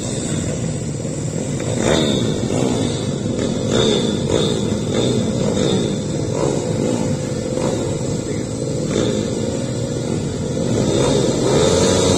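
Several motorcycle engines running hard together, their pitches rising and falling and crossing as they rev through the gears.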